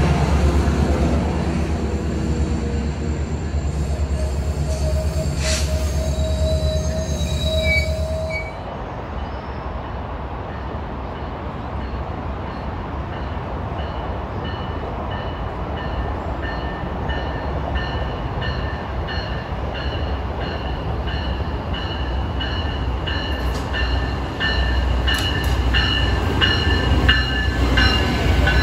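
A Metrolink diesel locomotive rumbling past with a heavy low engine drone for the first eight seconds or so. Then an Amtrak Pacific Surfliner train led by a Siemens Charger diesel locomotive rolling in to stop, its wheels and brakes squealing in several high steady tones that grow louder toward the end.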